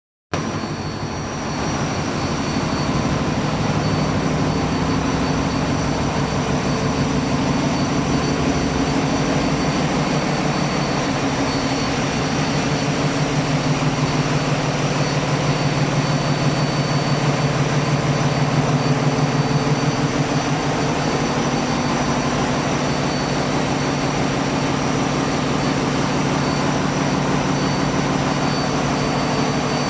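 A sailboat's inboard engine running steadily underway, heard up close inside the engine room, with a throbbing beat that grows stronger about halfway through and a few steady high whines above the drone.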